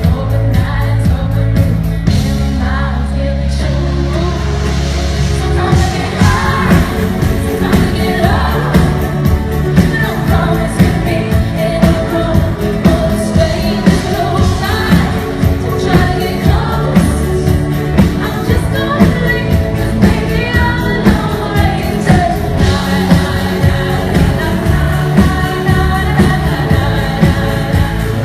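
Pop song performed live by a band, with a woman singing lead; a steady beat kicks in a few seconds in.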